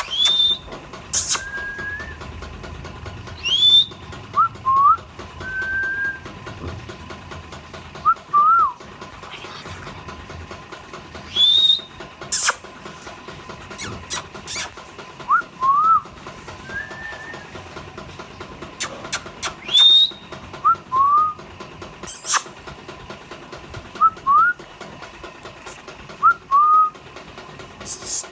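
Indian ringneck parrots giving short whistled calls, many of them quick rising notes, a few every couple of seconds. Sharp clicks come in between.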